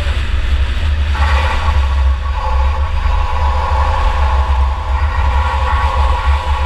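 Onboard engine and running noise of a 2004 Chevy Impala enduro race car under way: a heavy low rumble throughout, with a steady higher engine tone joining about a second in.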